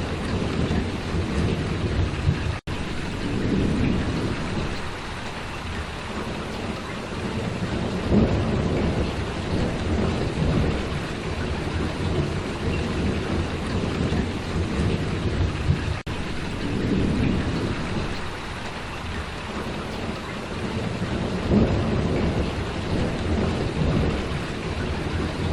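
Steady heavy rain falling, with a low rumble that swells and fades several times underneath. The sound cuts out for an instant twice, early on and about two-thirds through.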